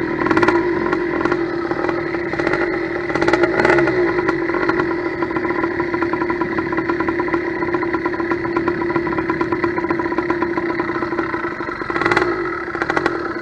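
Small single-cylinder two-stroke motorized-bicycle engine (a roughly 90cc steel-bore kit) running at a steady speed while its carburettor is being tuned. It rises briefly a couple of times, then cuts off suddenly near the end.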